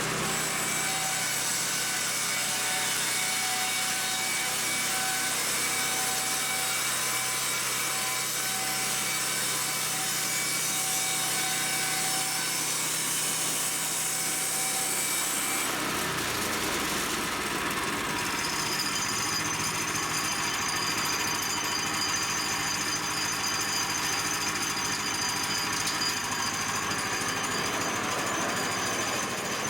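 Woodland Mills HM122 portable bandsaw sawmill running steadily, its blade cutting through a stack of boards. The pitch of the sound shifts about halfway through.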